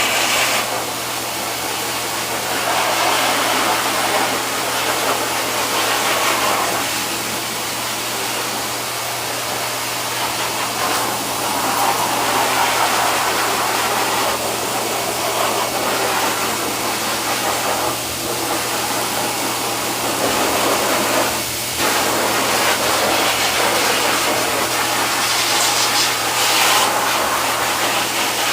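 Pet grooming dryer blowing steadily over a pet's coat, with a constant motor hum under a rush of air that swells and eases every few seconds.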